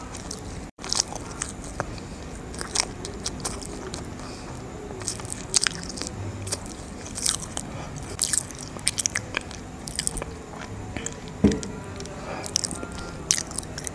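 Close-miked chewing of a soft chocolate brownie dipped in peanut butter, made of many small irregular clicks and smacks of the mouth.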